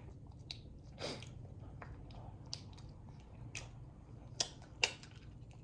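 Close-up eating sounds: soft chewing and wet mouth smacks, with a few short sharp clicks, the two loudest near the end.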